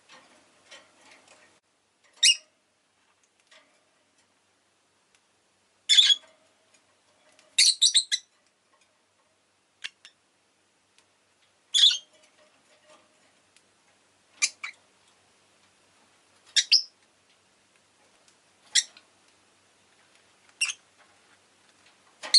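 Rosy-faced lovebird giving short, sharp, high chirps about every two seconds, some in quick pairs, with faint soft clicks between them near the start.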